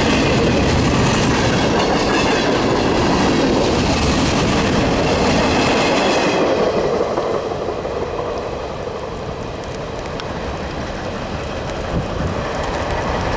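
Norfolk Southern freight train's cars passing at speed, wheels clacking over the rail joints. About halfway through the noise drops and thins, and stays lower to the end.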